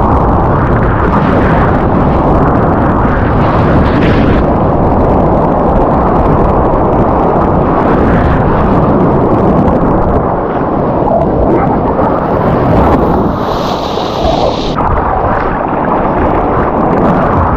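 Loud, continuous rumble of wind and rushing surf water buffeting a GoPro's microphone while surfing, with a brief brighter hiss of spray about thirteen seconds in.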